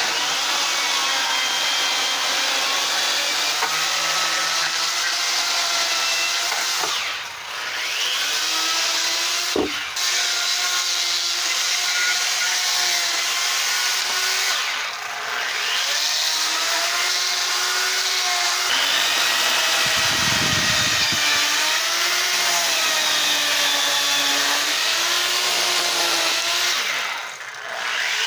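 Electric die grinder with a burr cutting into wood. Its motor whine wavers up and down as the cutter bites, and the load lets off briefly three times.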